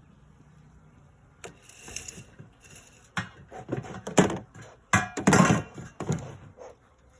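Dry pine straw crunching and crackling in irregular bursts as it is handled and packed into a metal bee smoker, starting with a single click about a second and a half in and growing louder after about three seconds.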